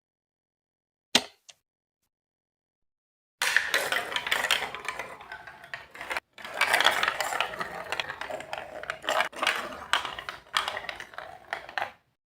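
A single sharp click about a second in, then marbles rolling and clattering down a track of plastic Lego Duplo blocks: a dense rattle of many small clicks with a short break near the middle, cutting off abruptly near the end.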